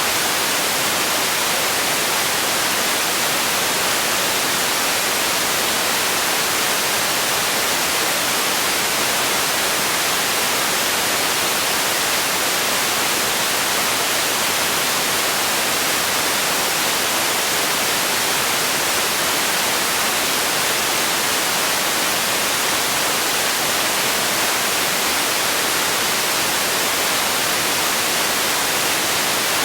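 Steady, unchanging hiss of generated white noise, bright and with little bass.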